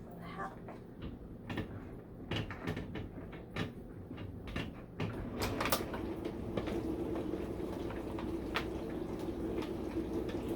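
Scattered clicks and knocks of a humidifier and its power cord being handled and plugged in, then a steady low hum that sets in about five seconds in.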